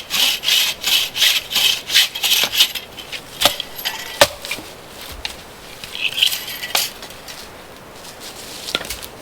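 Rhythmic rasping strokes, about three a second, for the first three seconds or so, then a few scattered knocks and clicks.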